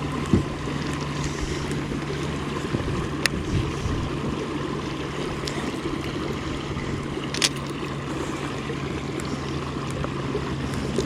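Steady low hum of a boat motor with water and wind noise, and two sharp clicks, about three and seven seconds in.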